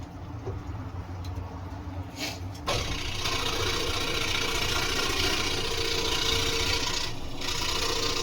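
Scroll saw starting up suddenly about three seconds in and then running steadily, its noise briefly dipping near the end; a low hum comes before it.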